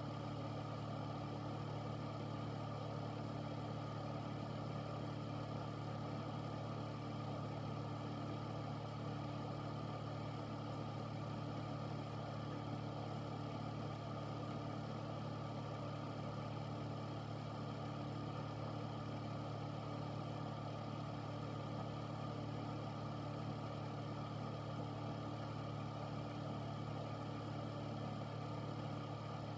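An air filter's fan running steadily: a constant low hum with an even rush of air over it, unchanging throughout.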